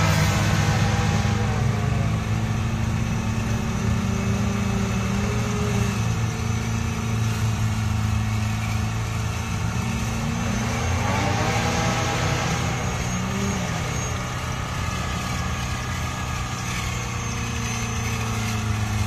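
Off-road 4x4's engine running steadily at low revs while the vehicle crawls through rough terrain. The revs rise and fall briefly a couple of times around the middle.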